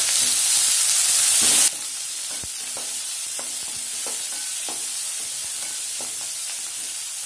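Onions, green chillies and fresh curry leaves sizzling in hot oil in an aluminium kadai. The loud hiss cuts off sharply under two seconds in, leaving a softer sizzle with a wooden spatula clicking and scraping against the pan about three times a second as the onions are stirred.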